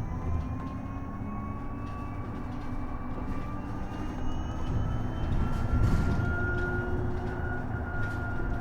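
Isuzu Erga EV electric bus's traction motor whining as the bus accelerates, the whine rising in pitch and then levelling off, over a steady rumble of road and tyre noise heard from inside the cabin. A low thud about six seconds in.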